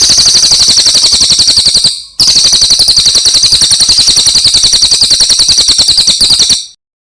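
A songbird's rapid trill of high repeated notes, played from a masteran (bird-tutoring) recording. It breaks off for a moment about two seconds in, resumes, then cuts off suddenly near the end.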